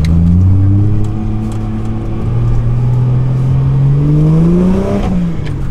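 Ford AU Falcon engine heard from inside the cabin under way. The revs hold steady, climb evenly for a few seconds, then drop back about five seconds in. It pulls cleanly with no fuel cut.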